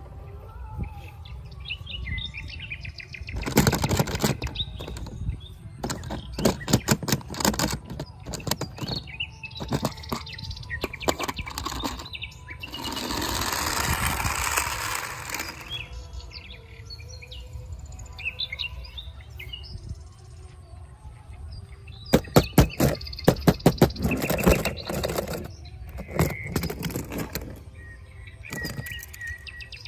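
Several bursts of rapid clicking and clattering, with a hissing rush about halfway through, while birds chirp in the background.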